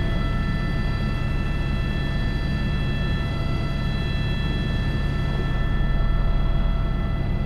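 Airbus H125 helicopter heard from inside the cockpit: a steady low rotor and engine drone under a set of constant high turbine and gearbox whines.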